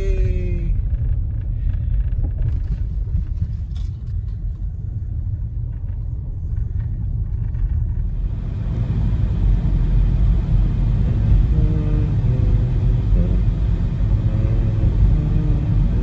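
Car driving, heard from inside the cabin: a steady low engine and road rumble. Tyre and road hiss grows louder about halfway through as the car speeds up.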